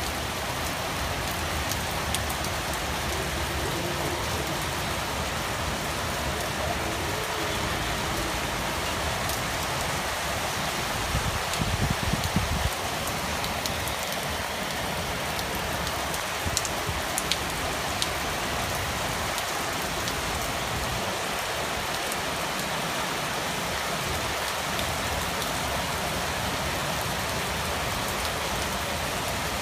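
Heavy rain falling steadily on hard surfaces, a constant hiss. About eleven seconds in a low rumble swells for a couple of seconds, and a few sharp ticks stand out a little later.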